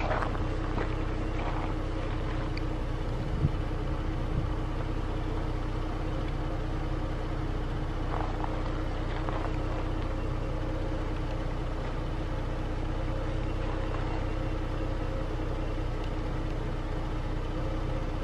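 A vehicle engine idling with a steady, even low hum. A faint brief tick comes about three and a half seconds in, and another about a second later.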